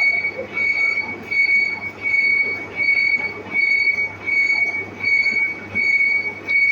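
Metal lathe running with a high squeal that swells and fades about every three-quarters of a second, over steady machine noise and a low hum.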